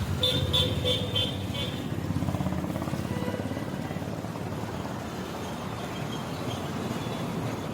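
Road traffic with a vehicle horn tooting in about five quick short beeps in the first two seconds, then a steady low vehicle rumble.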